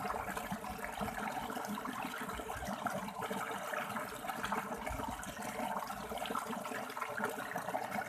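River water flowing and splashing over rocks in a steady, unbroken rush, with many small bubbling splashes.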